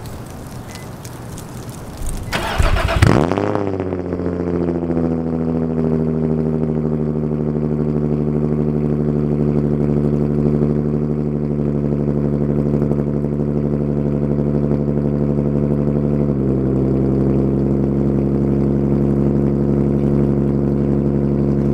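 Car engine cranking and catching with a brief rev flare, then settling into a steady idle heard close to the exhaust tip; the idle steps down a little about three-quarters of the way through. Wind noise before the start.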